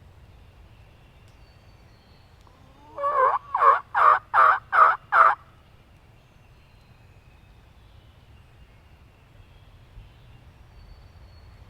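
Wild turkey calling: a quick series of about six loud yelping notes, each dropping slightly in pitch, lasting about two and a half seconds.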